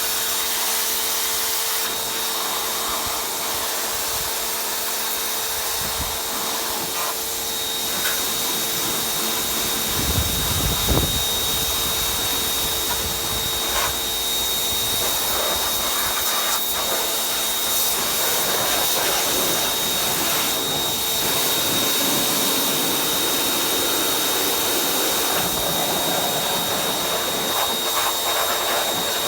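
Pressure washer running steadily: a constant motor hum under the hiss of the spray, with a brief low rumble about ten seconds in.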